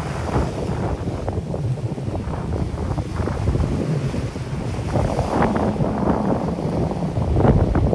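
Strong wind buffeting the microphone with a low rumble, over sea waves washing onto a sandy beach. The surf swells about five seconds in and again near the end.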